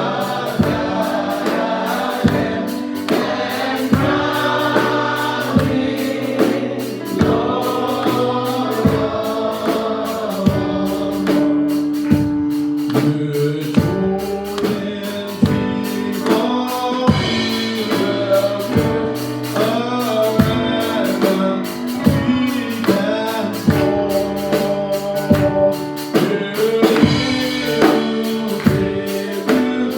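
Gospel choir singing a worship song over a band, with a steady beat of about two drum hits a second.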